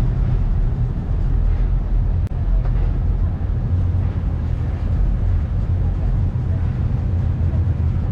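Ferry's engines running with a steady low rumble and hum, heard from the upper deck over a noisy haze of wind and water.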